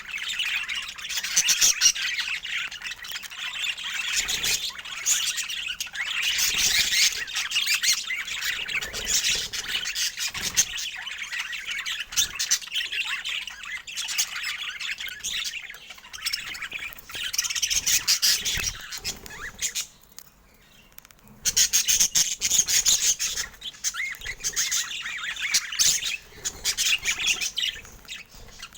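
Budgerigars chattering, warbling and squawking, busy and almost continuous, with a short lull about two-thirds of the way through.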